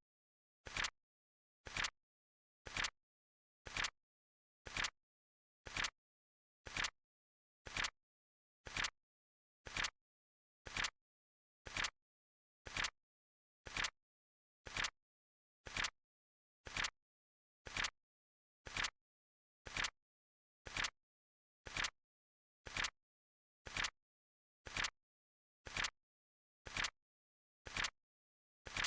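Synthetic flip clock flip sound, one short sharp click about once a second with silence between, as the countdown flips each second.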